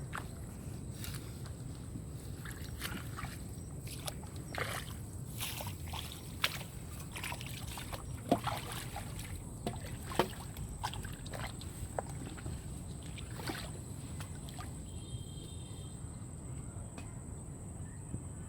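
Water sloshing and splashing in short, irregular strokes over a low steady rumble.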